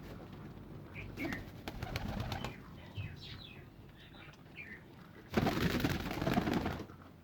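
Caged birds calling with short, high, falling chirps, then a loud rustling flurry lasting about a second and a half near the end.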